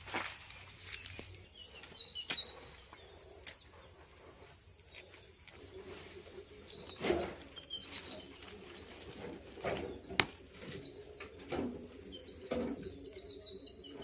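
Small birds chirping in short twittering runs, three times, with scattered sharp clicks in between.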